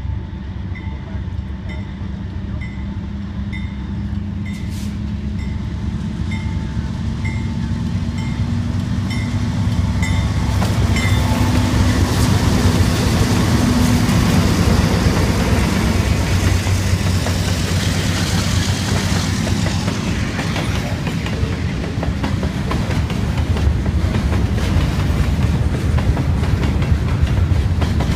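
Diesel-hauled freight train approaching and passing. The locomotive's engine drone grows louder and peaks about halfway, then the freight cars go by with a steady clickety-clack of wheels over the rail joints. A regular high ding repeats about every half second for the first ten seconds or so.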